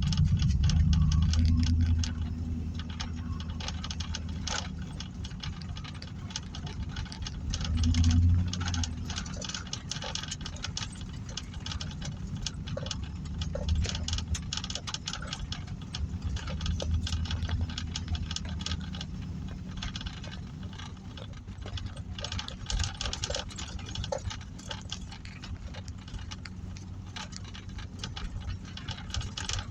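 Heavy rain falling, a dense, continuous patter of drops. Low rumbles rise over it at the start and again about eight seconds in.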